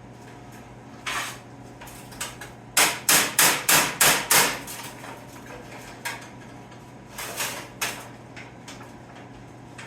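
Hand hammer striking sheet metal to fold its edge over. One blow, then a quick run of about six blows at roughly three a second, then a few scattered lighter blows.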